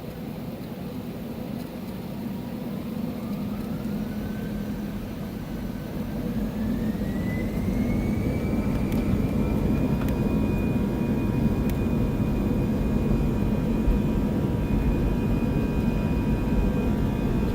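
Airbus A320-216's CFM56 jet engines spooling up to take-off thrust, heard from inside the cabin: a whine rises over about seven seconds and then holds steady above a louder rumble.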